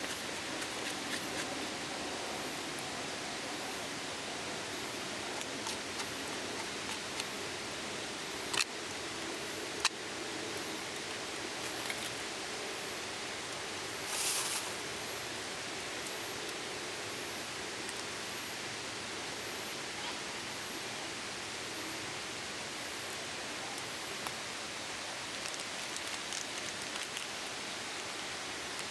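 Steady outdoor rushing noise, with faint high chirps repeating about once a second, two sharp clicks about eight and ten seconds in, and a short hiss about fourteen seconds in.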